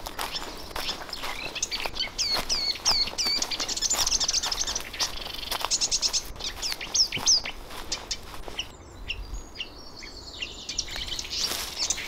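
Small birds chirping in quick runs of short, curved notes for several seconds, then fading out. Footsteps crunch on the forest floor throughout.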